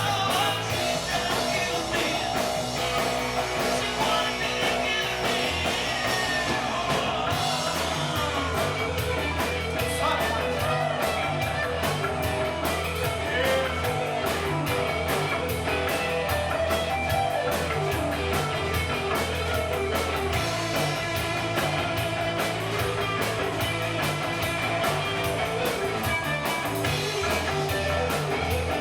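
Live rock band playing, with electric guitar, bass and drums and some singing.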